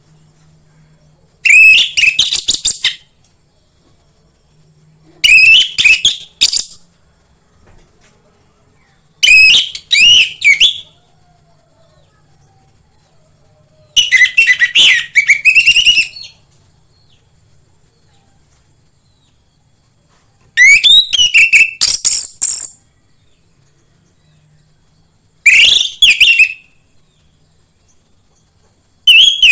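Orange-headed thrush (anis merah) singing: short, varied phrases of rapid whistled notes and trills, one every four to five seconds or so, with pauses between them.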